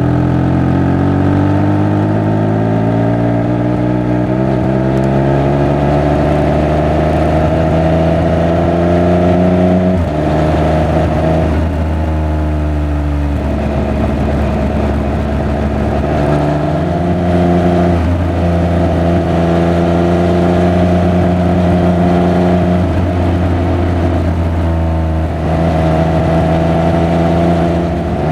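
Triumph Speed Triple 1200 RR's three-cylinder engine and exhaust on the road. The pitch climbs steadily for about ten seconds, drops at a gear change, rises briefly, then falls as the bike slows, holds fairly steady with short rises, and near the end dips and climbs again.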